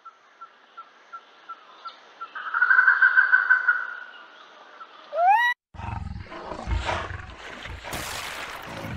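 Indian peafowl calling: a run of soft repeated pips swells into a louder pulsing call about two seconds in, and a short rising call comes about five seconds in. From about six seconds a rougher stretch of water noise and low rumbling follows, with a hiss near the end.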